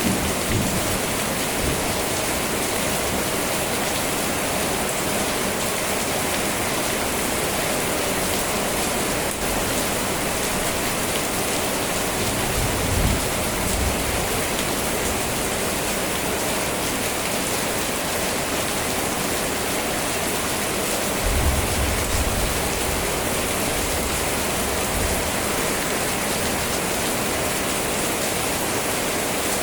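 Steady, even rain. Two low rumbles come in, one a little under halfway through and another about two-thirds of the way in.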